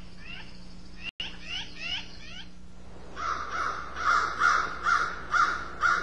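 Wild birds calling. First comes a run of quick, high, down-slurred chirps. Then, about three seconds in, a harsher call starts and repeats about two or three times a second.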